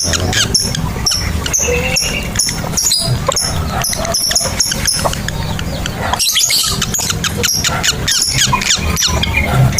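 Lovebirds chirping and chattering: a run of short, high-pitched chirps, about two a second, over a steady low hum.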